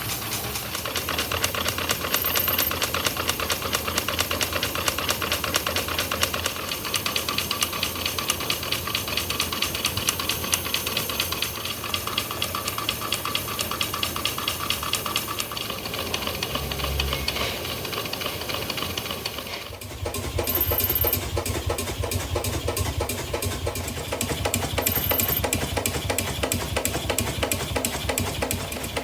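Small model engine running with a rapid, even beat and a hiss. About two-thirds of the way through, the sound changes to another small engine running with a heavier, deeper beat.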